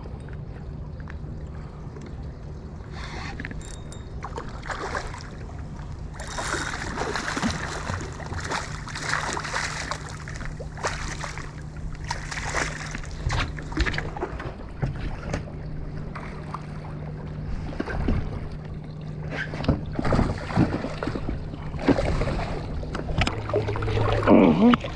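A boat's engine running with a steady low hum, with water splashing against the hull and faint, scattered voices.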